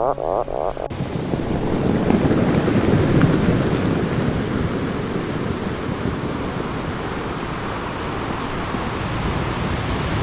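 Steady rushing of ocean surf that cuts in abruptly about a second in, just as a run of short, rising animal calls stops.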